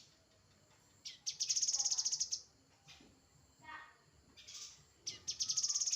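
Grey-headed canary-flycatcher singing: a fast, high trill about a second long, about a second in and again near the end, with a few shorter, lower notes between.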